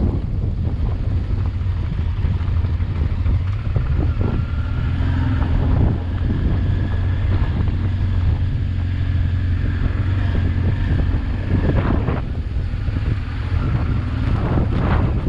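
Honda Transalp XL600V V-twin engine running steadily under way, with wind buffeting the microphone. A few short knocks come through, about four seconds in, near twelve seconds and near the end.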